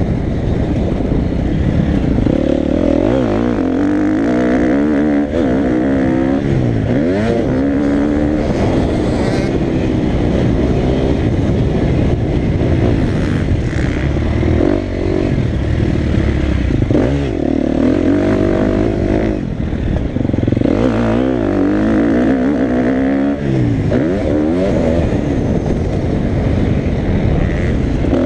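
Motocross bike engine revving hard and easing off over and over, its pitch climbing and dropping every second or two with a steady low rumble underneath.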